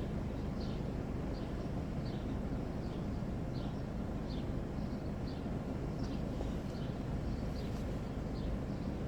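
Steady low vehicle or traffic rumble, with short high chirps repeating about once a second.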